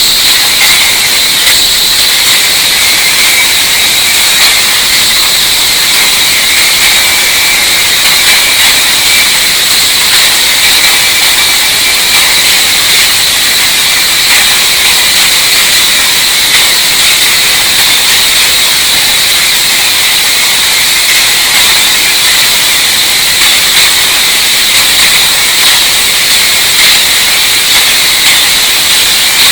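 Loud, steady hissing noise, mostly high-pitched, with no engine note or rhythm in it. It starts abruptly just before this moment and stays unchanged throughout.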